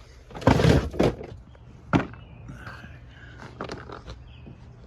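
A few metallic clanks and sharp clicks, as when tools and refrigerant fittings are handled, over a steady low hum from the running equipment. The loudest clanks come in a cluster about half a second in, with a single sharp click about two seconds in.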